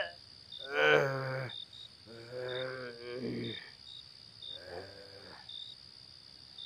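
An old man's voice groaning and moaning drunkenly in three drawn-out, wavering cries, the last one fainter, with faint cricket chirps in the background.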